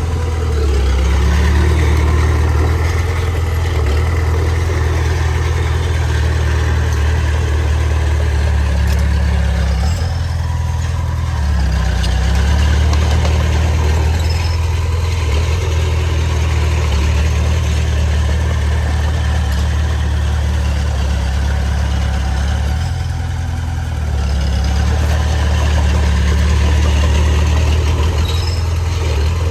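Large diesel engine of heavy earthmoving machinery running under varying load, its low drone dropping and rising in pitch several times.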